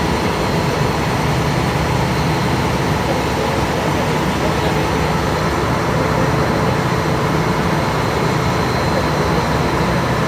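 Passenger ferry's engine running steadily, heard on board: a constant loud drone with a low hum and a faint high whine, and no change in speed or level.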